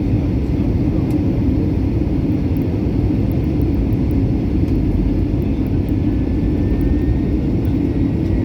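Airliner noise from engines and airflow, a steady low rumble that holds an even level throughout.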